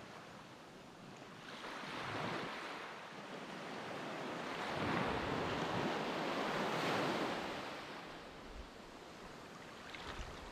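Sea surf washing onto a beach, the noise of the waves swelling and fading in slow surges a few seconds apart.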